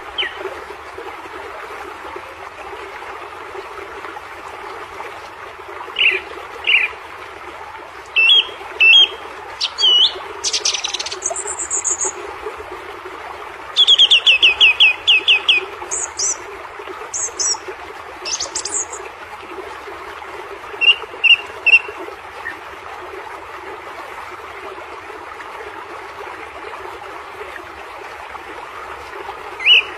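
Birds chirping in scattered short bouts, with one quick run of repeated high chirps about halfway through, over a steady background noise.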